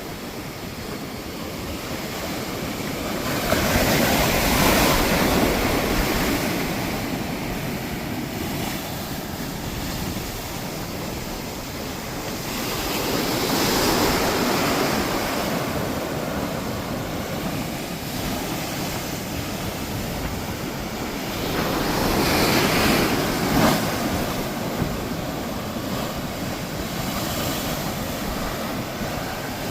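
Storm-driven ocean waves crashing into an inlet. Three big breakers surge and fade about nine seconds apart, with a steady rush of surf between them.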